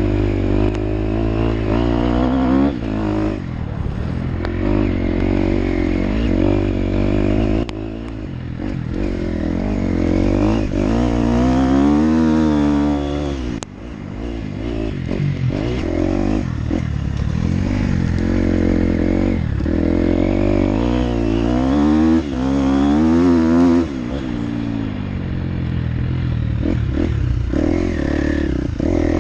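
Motocross bike engine being ridden hard, revving up and down repeatedly as the throttle is opened and rolled off and it shifts through gears, with some clatter.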